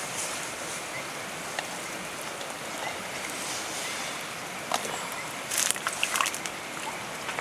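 Steady rain falling, with a short cluster of sharp clicks and knocks about five to six seconds in.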